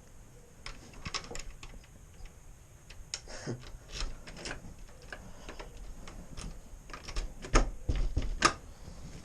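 Irregular sharp clicks and knocks, like small hard parts being handled or rattling, with a few louder thuds about a second before the end.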